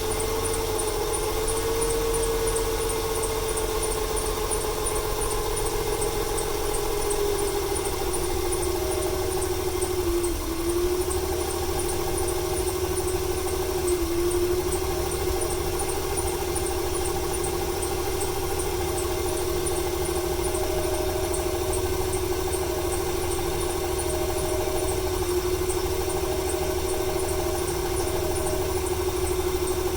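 Ford 300 cubic-inch inline-six engine idling roughly with a misfire, stumbling briefly about ten and fourteen seconds in. The owner is unsure whether the misfire comes from fuel or timing.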